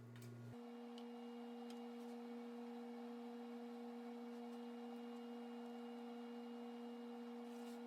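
Faint, steady electrical hum: one low tone with its octave above it. A deeper hum underneath drops out about half a second in.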